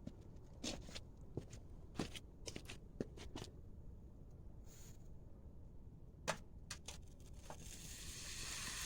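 Scattered light clicks and knocks of crucible tongs and gear being handled. A soft hiss builds near the end.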